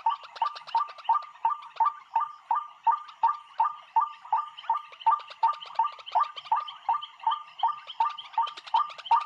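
A bird calling in a fast, evenly repeated series of short notes, about three a second.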